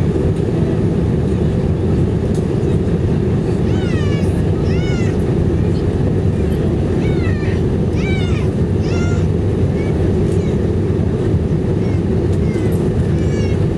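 Steady engine and airflow noise inside the cabin of an Airbus A319-115 in flight. In the middle, a string of about eight short, high cries rises and falls in pitch over the drone.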